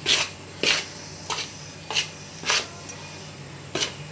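Rice flour being stirred and mixed with hot water in a stainless steel bowl: a run of about six short, scraping swishes, mostly about half a second apart, with a longer pause before the last one.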